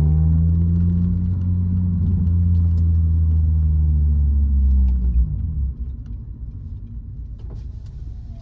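Acura RSX Type-S's K20 four-cylinder running at steady revs through an Invidia N1 cat-back exhaust, a strong, low, steady note. The pitch eases down slightly, then the note drops away sharply about five seconds in, leaving a quieter rumble.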